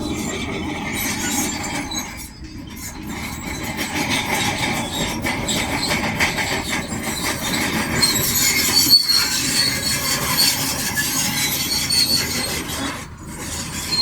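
Crawler bulldozer at work: steel tracks squealing and grinding over the engine's running, dipping briefly twice.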